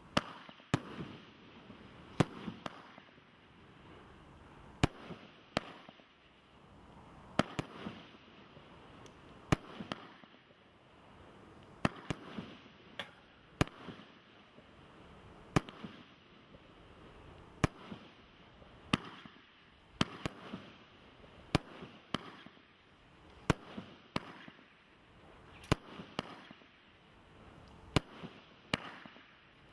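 Leveller 98-shot firework barrage cake firing: sharp bangs every second or two, some in quick pairs, with a hiss of launching shots between them.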